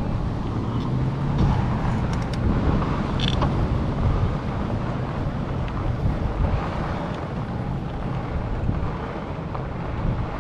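Steady riding noise from a fat-tyre e-bike under way: low rumble of the tyres on the path mixed with wind on the microphone, with a few faint clicks a few seconds in.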